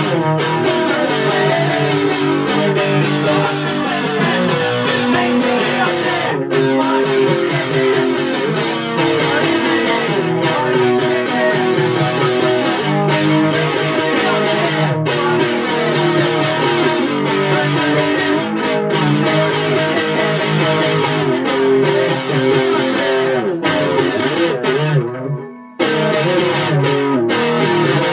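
Electric guitar played through effects, an instrumental stretch of chords and riffs without singing, with a brief break near the end before it comes back in.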